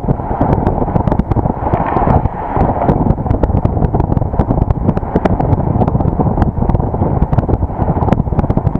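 Wind buffeting an action camera's microphone over the steady rumble of a vehicle driving on the road, with frequent sharp clicks and rattles throughout.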